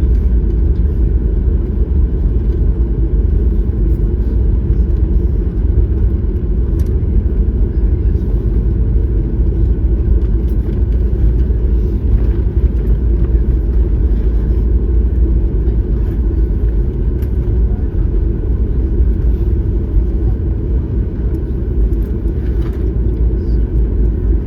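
Steady low rumble of cabin noise inside a Boeing 737-9 MAX, the sound of its engines and airflow through the fuselage.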